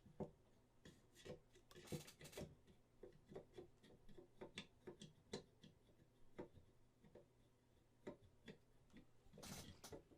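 Faint, irregular clicks and taps of hard resin model parts being handled and set down, with brief rustles about two seconds in and near the end.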